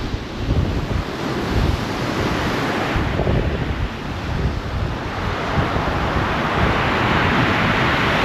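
Rough sea surf breaking and washing against the shore, mixed with gale-force wind buffeting the microphone in gusts. About halfway through, a louder hiss of surf and spray builds and holds.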